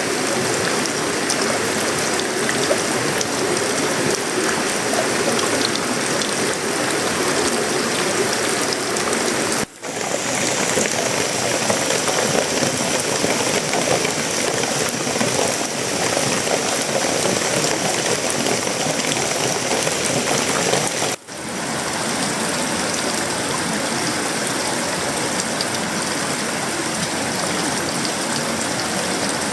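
Heavy tropical rain falling steadily on sheet-metal roofing, wood and leaves, a dense even hiss. The sound drops out briefly twice, about ten and about twenty-one seconds in.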